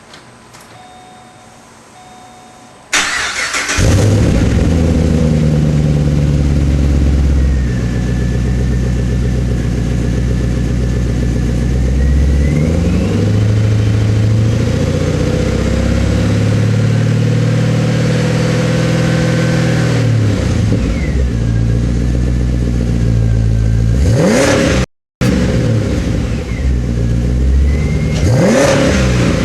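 Pontiac G8 GT's 6.0-litre V8 starting after two short beeps, about three seconds in, through a custom 2.5-inch dual exhaust with Flowmaster Delta 40 rear mufflers and a Magnaflow centre muffler, then idling steadily. Near the end the engine is revved twice, briefly.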